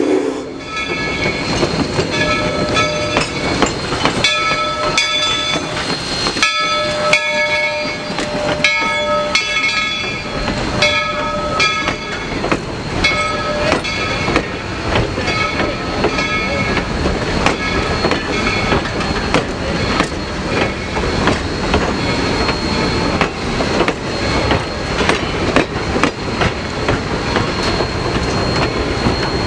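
Valley Railroad steam-hauled passenger train rolling past, its wheels clicking steadily over the rail joints. A repeated ringing note sounds about once a second through the first half.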